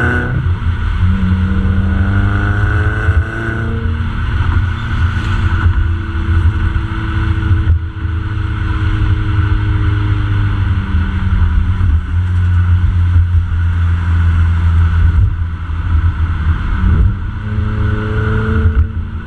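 Subaru WRX's turbocharged flat-four engine running through an aftermarket catback exhaust while driving. A loud, steady low drone, with the engine note slowly rising and falling as the revs change.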